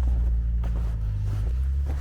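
A motor vehicle's engine running nearby with a low hum, slowly fading. Footsteps in snow fall about twice a second.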